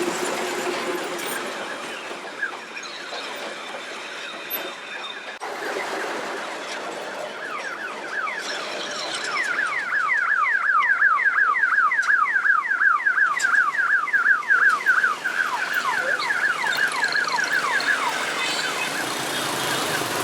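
An electronic alarm sounding a rapid train of falling chirps, about five sweeps a second. It is faint at first, grows loud about halfway through, and fades near the end, over general street noise.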